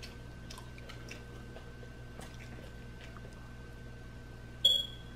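Pizza being chewed, with faint scattered mouth clicks over a steady low hum. Near the end, one short, loud, high-pitched squeak.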